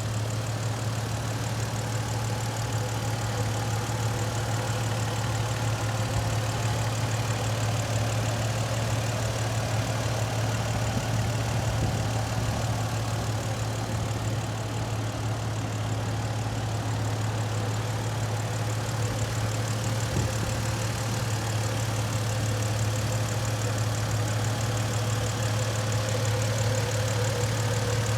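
1995 Toyota Land Cruiser FJ80's engine idling steadily, with a constant low hum and no revving.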